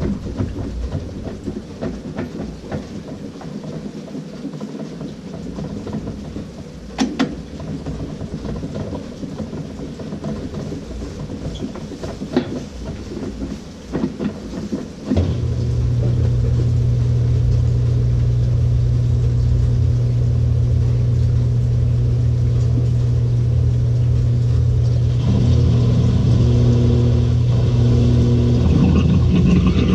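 LG 18 kg top-load washing machine starting its spin: irregular watery noise with a few clicks, then about halfway a steady low hum from the pump and motor sets in, and a few seconds before the end a louder hiss joins as the drum picks up speed.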